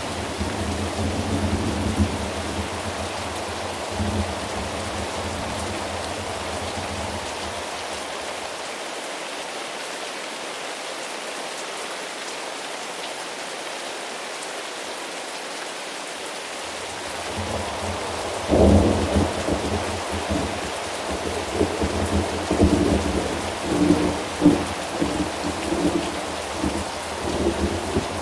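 Steady rain with thunder. A rumble dies away in the first several seconds, leaving rain alone, then a loud thunderclap breaks about two-thirds of the way in and rolls on in crackling, uneven rumbles.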